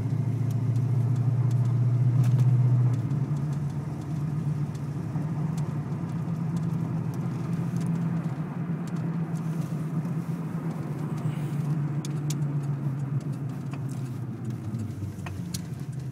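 1991 Ford Mustang 5.0 V8 and drivetrain heard from inside the car while driving slowly, a steady low drone carrying a vibration noise that new U-joints, wheel bearings, motor mounts and transmission mounts have not cured. The drone drops in level and changes pitch about three seconds in.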